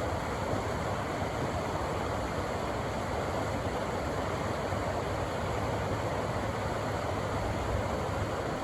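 River water rushing over rocks in a steady, unbroken roar.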